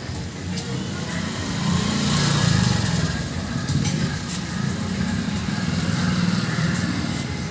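A motor vehicle engine running, a low rumble that swells about two seconds in and then holds steady.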